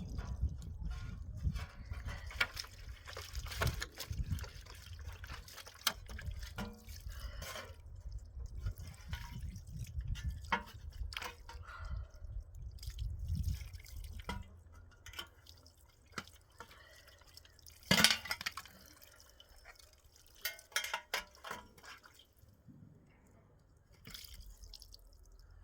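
Water splashing and dripping, with scattered small knocks and one sharp clack about two-thirds of the way through.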